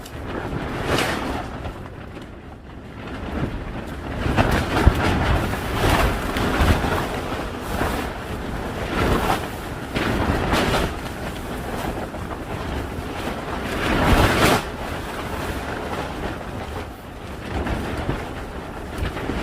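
Strong wind gusting and buffeting the microphone, surging every second or two, with the biggest gust about two-thirds of the way through.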